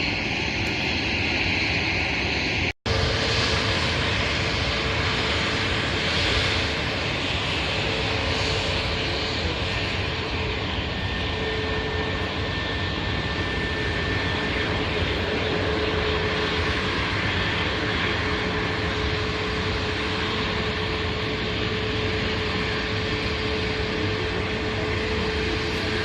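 Jet airliner engines running steadily, a constant rushing noise with a steady whine through it. The sound drops out for an instant about three seconds in.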